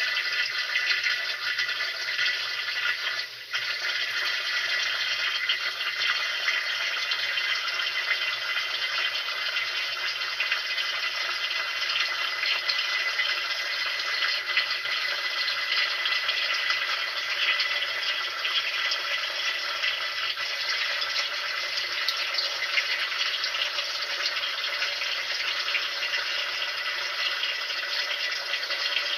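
Water running steadily, a constant rushing noise, with a brief dip about three seconds in.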